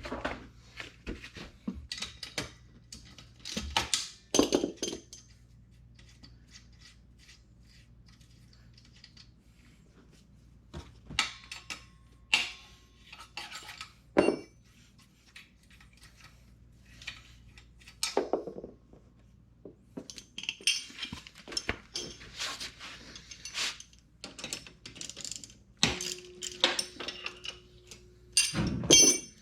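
Hand tools and metal exhaust parts clinking and clattering off and on while bolts are taken out of a Honda Grom's exhaust, over a faint steady low hum.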